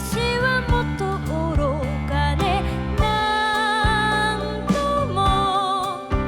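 Music: a song with a high sung melody, its held notes wavering with vibrato, over bass and drum hits.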